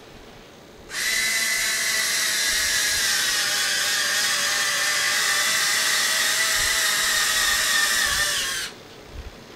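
Small electric motors of servoless landing-gear retracts whining steadily as the gear cycles, starting abruptly about a second in and cutting off sharply some eight seconds later.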